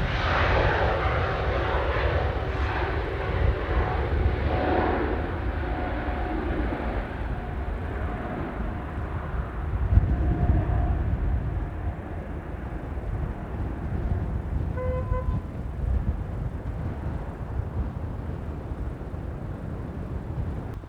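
Airbus A320neo's twin jet engines at takeoff power as the airliner climbs away: loud at first, then fading and growing duller as the hiss dies away, leaving a low rumble.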